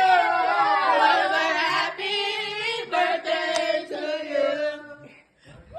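A group of voices singing together in long, drawn-out notes, stopping near the end.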